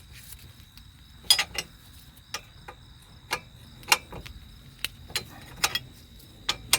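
Irregular sharp metal clicks and taps, roughly two a second, from hand tools working on a rusted outer tie rod end and its jam nut.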